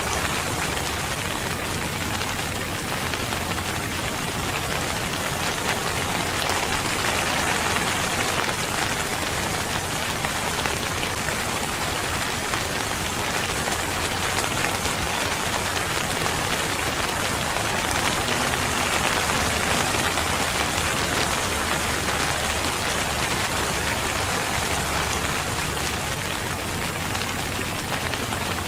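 Steady rain falling on a surface, a dense even patter.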